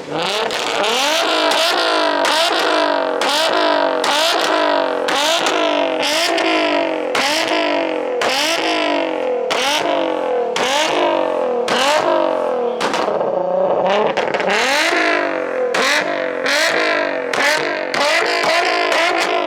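Car engine held high in the revs during a burnout. The revs climb and cut out over and over, about one and a half times a second, as the engine bounces off its rev limiter.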